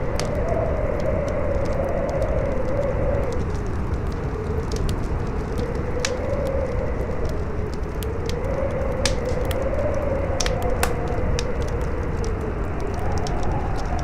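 Campfire crackling, with irregular sharp pops, over steady wind whose howling tone slowly rises and falls.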